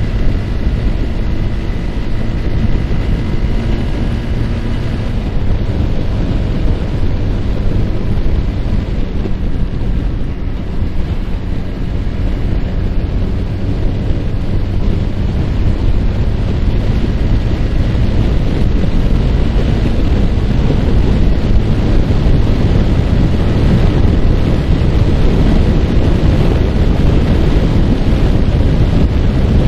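Yamaha R15's single-cylinder engine running under way, with heavy wind rushing over the microphone. The engine's pitch is clear for the first few seconds, then the wind rush swamps it and grows louder through the second half.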